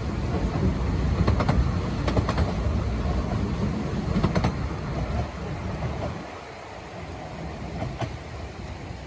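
A 15-inch-gauge Ravenglass and Eskdale Railway train rumbling past as it departs, with a few clicks from the wheels over the rail joints. The rumble fades away about six seconds in.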